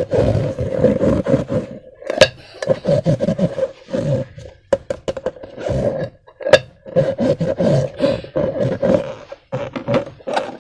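Slime being squeezed and worked by hand, making irregular sticky, squishy sounds with a couple of sharp clicks.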